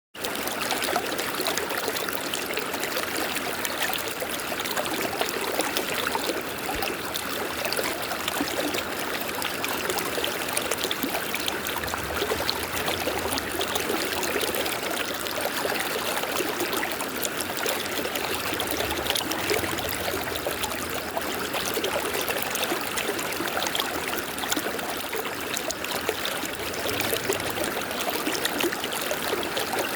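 River water flowing steadily over rocks: a continuous rushing and babbling.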